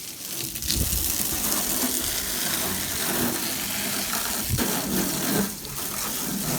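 Water spraying hard onto an aluminum boat hull, rinsing off aluminum brightener; a loud, uneven hiss of spray that rises and falls as the stream moves over the metal.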